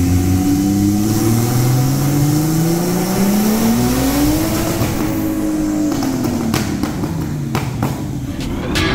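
Turbocharged BMW E36 straight-six under hard acceleration, the revs climbing steadily for about four seconds and then dropping. A run of sharp cracks follows, and the revs start climbing again near the end.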